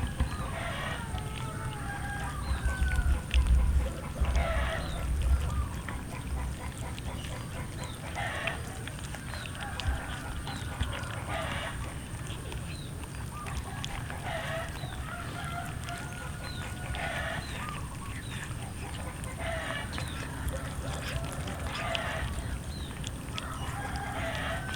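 Chickens calling, short pitched calls repeating about every two to three seconds, with a few low thumps near the start.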